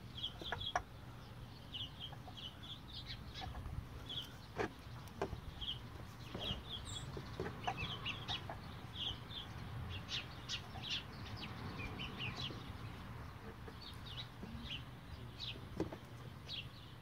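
Birds chirping over and over in short, high calls, over a steady low hum.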